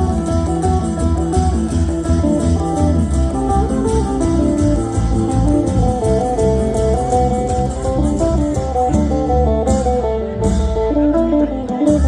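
Isan pong lang ensemble playing a fast instrumental piece: plucked-string melody over a heavy bass beat with quick, even cymbal strokes that thin out near the end.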